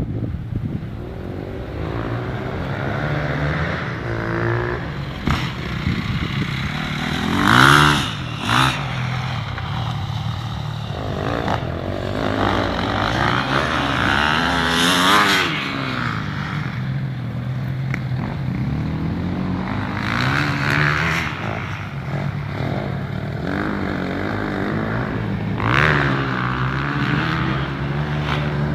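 Honda CRF150R dirt bike's four-stroke single-cylinder engine being ridden hard, revving up and down over and over, with louder bursts of throttle about eight, fifteen and twenty-six seconds in.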